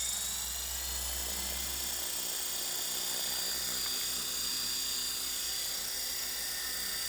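Tarot 450 Pro flybarless electric RC helicopter running, its motor and rotor whine rising slightly in the first second, then holding steady and high-pitched.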